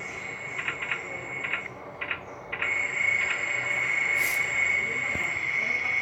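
Turboprop aircraft engines running, a steady high whine over a rushing noise, with a few faint clicks in the first half. The sound grows a little louder about halfway through.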